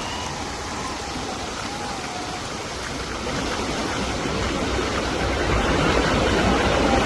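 Rushing water of a waterfall and its stream, a steady roar of noise that grows louder from about halfway through, as the waterfall comes nearer.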